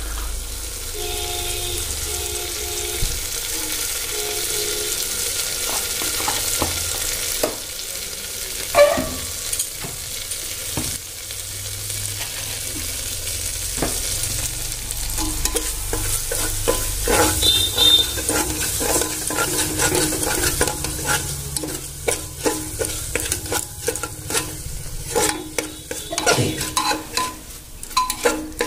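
Spice masala with tomato frying in oil in an open aluminium pressure cooker, sizzling steadily while a steel spoon stirs it. In the second half the stirring turns to quick, repeated scraping and clacking of the spoon against the pot.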